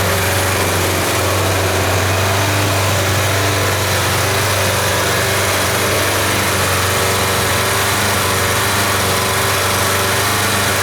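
Kawasaki GPZ550 (ZX550A) air-cooled inline-four motorcycle engine idling steadily.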